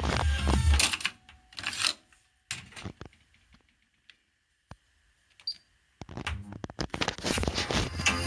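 Music from a Pioneer KEH-M7400RDS car cassette stereo cuts off, followed by a series of separate mechanical clicks and clunks from the unit's controls or cassette mechanism. The music starts again about six seconds in.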